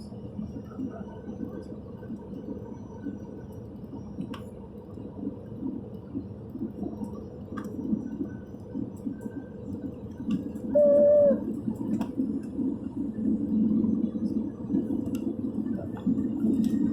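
Airbus A320 cabin noise: a low rumble that grows louder over the last few seconds, with a brief, loud single tone about eleven seconds in.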